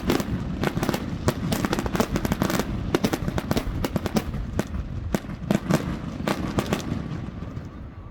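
Fireworks going off in rapid succession: many overlapping bangs and crackles, thinning out and fading about seven seconds in.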